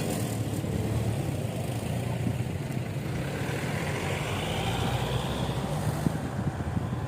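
Vehicle engine running steadily with road and wind noise, most likely a motorcycle being ridden; a faint rising whine comes in past the middle.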